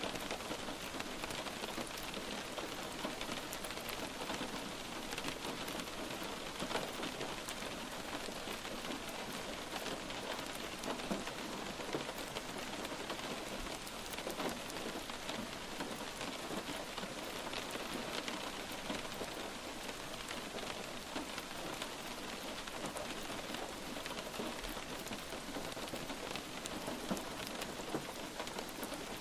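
Light rain falling steadily, a continuous patter of many small drop impacts.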